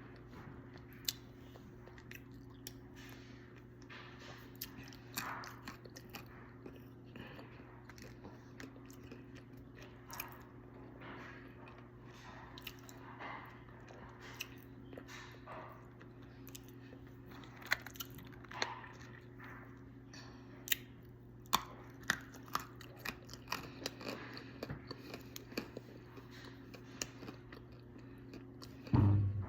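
Crunchy bites and chewing of dry calaba clay, sharp crunches coming at irregular intervals over a steady low hum. A louder low thump near the end.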